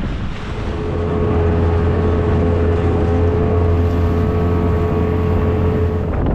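Small boat's outboard motor running at a steady speed, a constant drone that settles in about half a second in and cuts off near the end, with wind rushing on the microphone.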